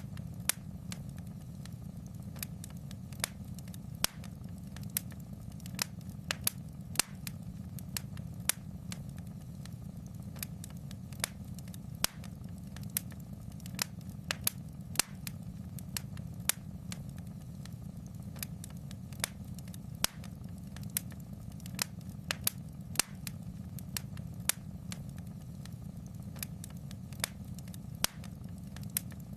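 Fireplace fire crackling: irregular sharp pops and snaps, a few each second, over a steady low rumble.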